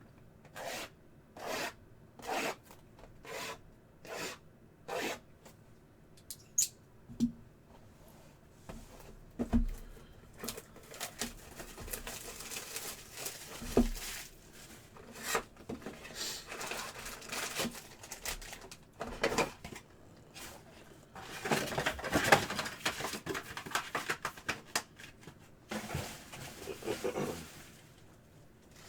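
Trading-card packaging being opened and handled. First comes a run of short rustles, then a few dull knocks, then longer stretches of wrapper tearing and crinkling as card packs are ripped open.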